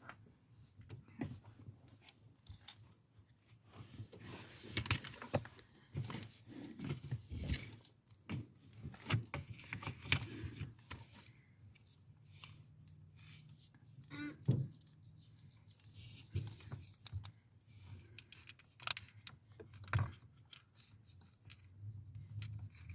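Hand work with small parts and tools: scattered, irregular clicks, rattles and light knocks.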